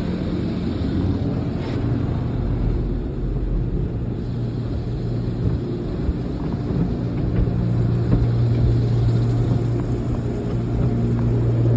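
Steady low hum and rumble of a car wash, heard from inside the car's cabin.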